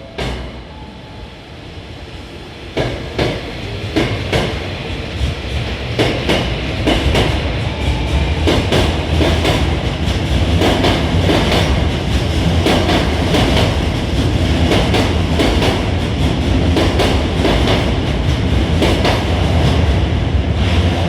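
Hankyu 1000 series electric train pulling out of a station: it grows louder over the first several seconds and then runs on steadily, with wheels clicking over rail joints and points, the clicks coming faster as it gathers speed.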